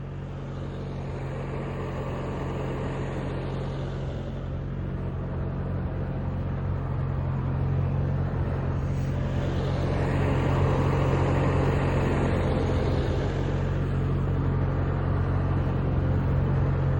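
Tractor engine running steadily, growing louder over the first several seconds and then holding.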